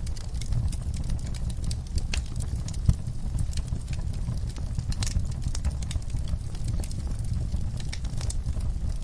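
Wood fire burning in a fireplace: irregular crackles and snaps over a steady low rumble of flames, with one sharp pop about three seconds in.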